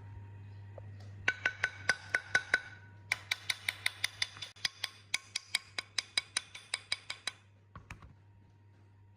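Rapid light hammer taps on a metal part, each strike ringing, about five a second: a short run of about seven taps, a brief pause, then a longer run of about twenty that stops near the seven-second mark, followed by two quick knocks.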